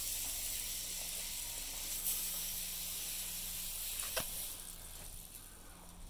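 A steady high-pitched hiss that fades out about four and a half seconds in, with a couple of faint clicks.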